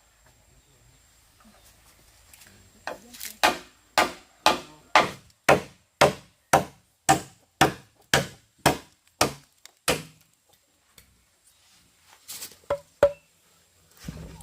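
Wood being chopped with a blade: about fourteen even strikes at roughly two a second, then a pause and a few more strikes near the end.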